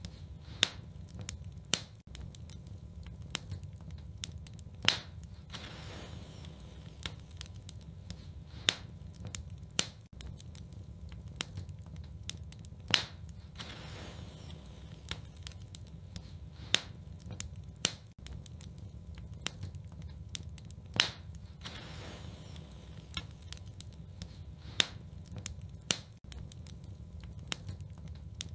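Fireplace fire burning: a steady low rumble of flames with sharp crackles and pops every second or few seconds.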